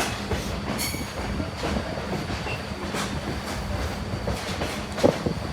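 Excursion passenger train rolling along the track: a steady low rumble with scattered clicks of the wheels over the rail joints, and a brief high squeal about a second in.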